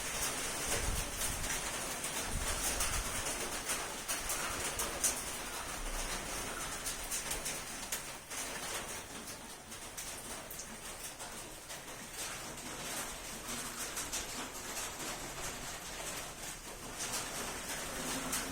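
Steady rain falling as an even hiss, dotted with sharp little ticks, with birds calling over it.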